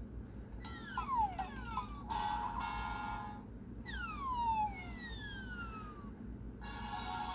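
Electronic sound effects from a Hasbro Candy Land play-a-sound book, its buttons pressed one after another: falling whistle tones about half a second in, then a short held chord, another set of falling whistle tones about four seconds in, and another held chord near the end.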